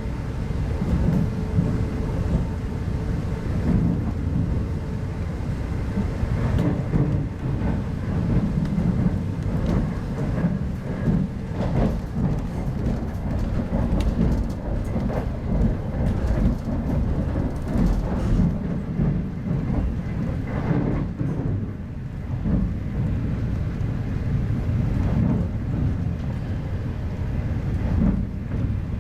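Steady low rumble of a moving passenger train heard inside a 25T-series coach: wheels running on the rails, with scattered short clicks.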